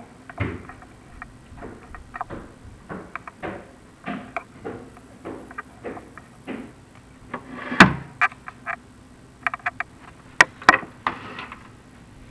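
Chimney inspection camera knocking and scraping against clay flue tile as it is run down the flue: irregular clicks and knocks, with a heavier thud about half a second in and the loudest knock near eight seconds.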